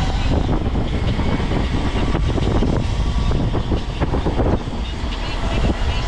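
Wind buffeting the microphone and road rumble while riding an e-bike at speed, a loud steady rush heaviest in the low end.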